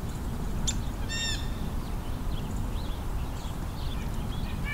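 House sparrows chirping steadily in a flock, with one louder, harsh blue jay call about a second in and a shorter call near the end, over a low steady rumble.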